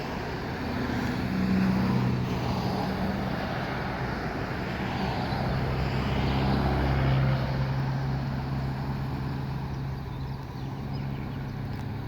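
Road traffic: vehicles driving past with a steady engine hum and tyre noise, louder about two seconds in and again around seven seconds.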